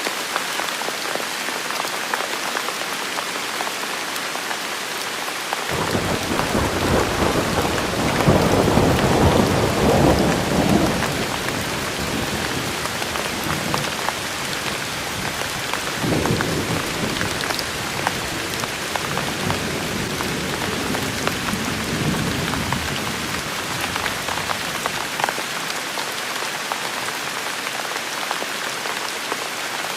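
Steady rain falling on hard surfaces. Thunder rolls in suddenly about six seconds in, swells for a few seconds, then rumbles again more softly in the middle before dying away.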